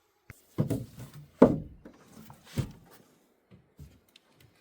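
Hollow thumps and knocks of footsteps and handling on the metal of a scrapped Beechcraft 18 wreck, in its small enclosed cabin: three louder ones about a second apart, then a few light taps.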